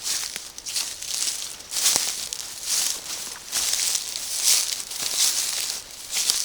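Footsteps through forest undergrowth, leaves and stems swishing against legs and clothing with each stride, a rustle about every three quarters of a second.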